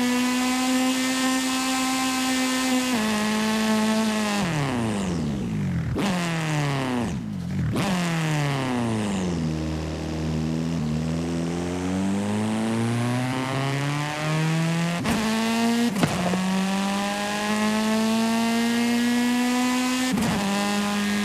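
Video-game car engine running, its pitch falling steeply as the car slows and then climbing again as it speeds up. In the second half there are a few sharp clicks, each followed by a step down in pitch before it rises again.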